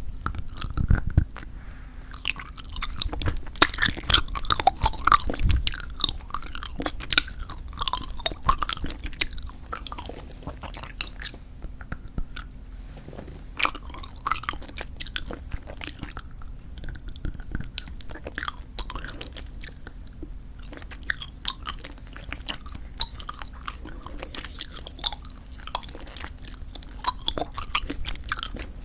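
Close-miked chewing of squeeze-tube bubblegum: quick wet, sticky clicks and smacks of the mouth, busiest and loudest in the first six seconds, then sparser.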